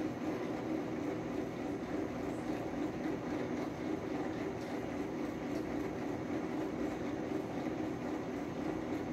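A steady, unchanging mechanical drone, like a machine or blower running.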